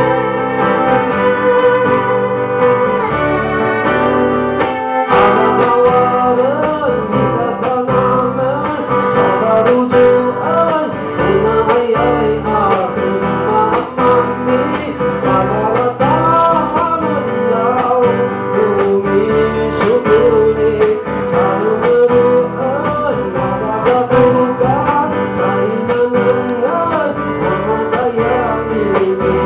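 A live song performance: guitar and band accompaniment with a voice singing a wavering melody from about five seconds in.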